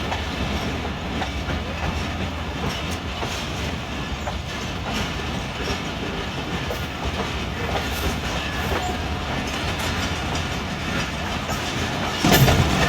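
Passenger train running at speed, heard from on board: a steady rumble of wheels on track with the clickety-clack of rail joints. About twelve seconds in the sound suddenly gets louder.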